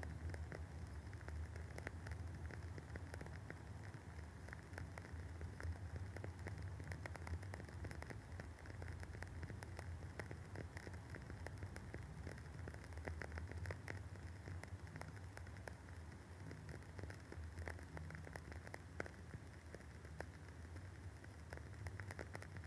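Wooden wick of a Woodwick candle burning with a soft, continuous crackle: many small irregular pops and ticks over a steady low hum.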